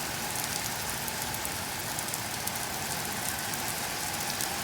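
Very heavy rain pouring down steadily, a dense hiss with fine drop patter throughout.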